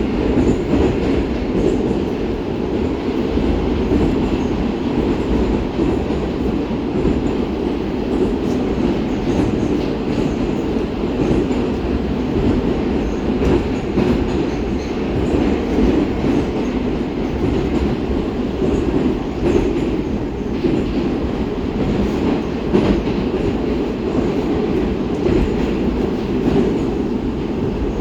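Cabin noise of a St. Petersburg metro 'Baltiets' train running at speed through the tunnel: a steady, loud rumble of wheels on rail and running gear, with faint clicks here and there.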